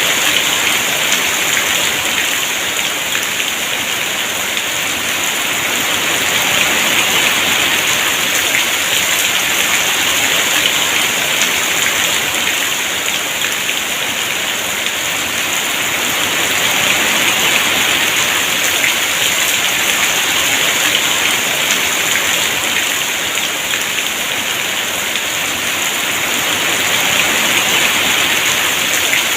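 Heavy rain pouring steadily, a dense even hiss that swells and eases slightly every several seconds.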